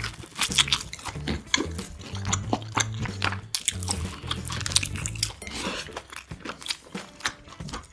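Close-miked chewing and biting of crunchy food, with rapid crackling crunches throughout, over background music with a low stepping bass line.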